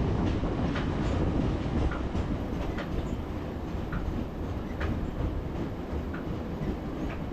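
A train running along the rails: a steady low rumble of wheels on track, with short high ticks from the wheels and rail joints scattered through it, easing off slightly toward the end.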